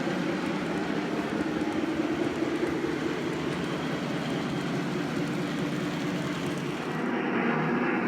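Lionel O-gauge model train running on the track: a steady rolling rumble of wheels on rail and motor hum. About seven seconds in it grows slightly louder and duller.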